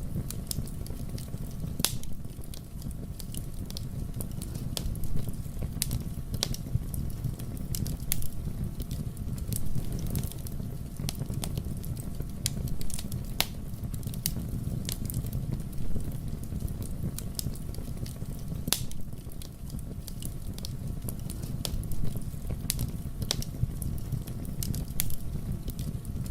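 Wood fire in a fireplace crackling, with sharp pops scattered irregularly over the steady low rumble of the flames.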